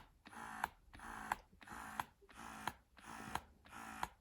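Bellababy wearable breast pump running in massage (let-down) mode: its small motor hums in quick, even pumping cycles, about three every two seconds, each ending in a click.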